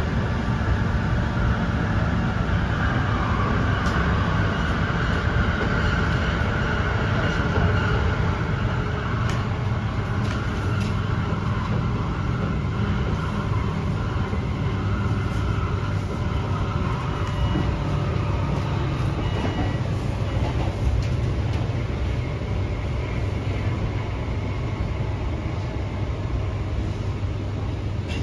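Interior noise of a Hyundai Rotem K-Train electric multiple unit running at speed: a steady low rumble of wheels on rails, with a faint high whine in places, heard inside the passenger car.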